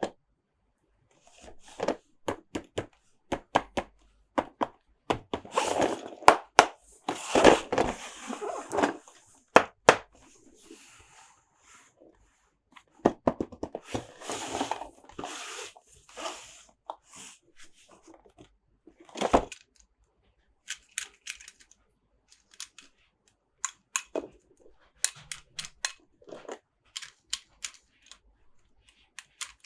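Close-up hands handling plastic toy trucks and packaging: scattered sharp clicks and taps, with two longer stretches of rustling and scraping, the first about five seconds in and the second about thirteen seconds in.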